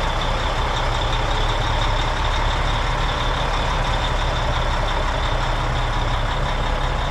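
Heavy truck diesel engine idling with a steady low rumble.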